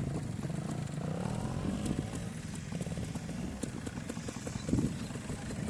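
Trial motorcycle engine running at low revs, a rapid even chugging, with a brief rise in revs about a second in.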